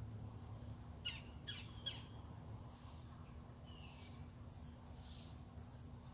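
A bird gives three short, harsh squawks about half a second apart, each falling in pitch, starting about a second in, over a faint steady low hum.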